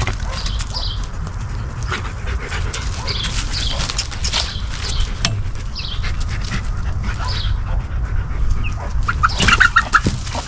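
Dog panting and sniffing close by, with short high chirps from birds scattered through and a few louder knocks near the end.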